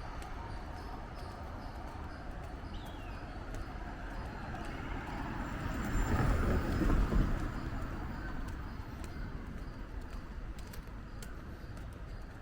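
A car passes by on a road, swelling to its loudest about halfway through and fading away a couple of seconds later. Footsteps tick faintly throughout, and a bird gives a short falling chirp about three seconds in.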